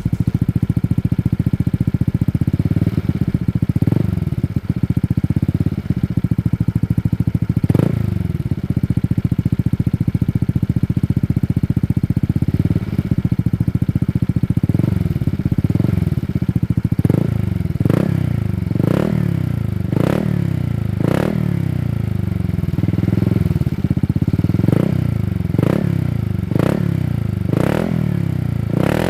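Honda Vario 160 scooter's single-cylinder engine running through a Shijiro Racing Opel 1 aftermarket exhaust. It idles with a fast, even pulse, is revved a couple of times, and from about halfway through is blipped in short revs about once a second.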